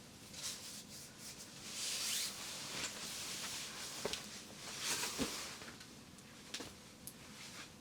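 Soft rustling and rubbing swishes, with a few light clicks and taps scattered through.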